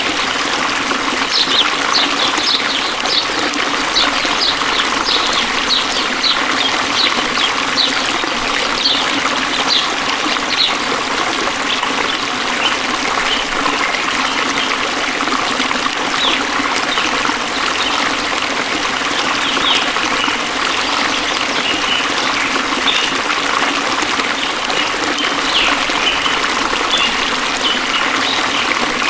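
Flowing water trickling and babbling steadily, with runs of short high-pitched notes over it in the first ten seconds and again later.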